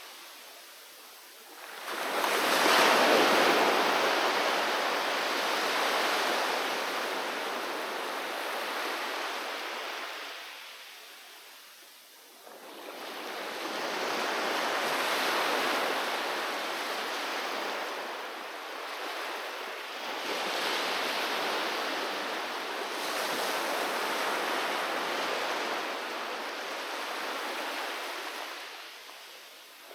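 Ocean waves breaking on the shore and washing back, coming in surges: a big wave about two seconds in, a lull before another rolls in, then further waves that fade near the end.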